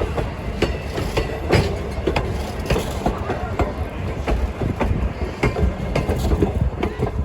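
Railroad train rolling along the track: a steady low rumble with many irregular sharp clicks and knocks of the wheels running over rail joints.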